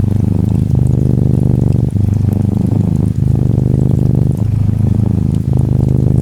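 Close-up purring of a Norwegian Forest Cat kitten, a steady low rumble that breaks briefly at each breath, about every second and a quarter. Gentle rain patters faintly behind it.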